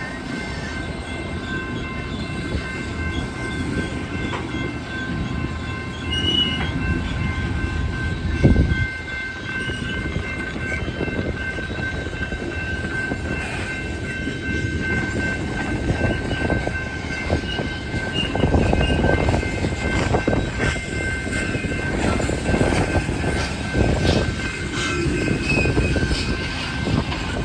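Loaded coal train rolling past, its wheels rumbling and clattering along the rails, with steady high-pitched tones over it. The clatter gets louder in the second half.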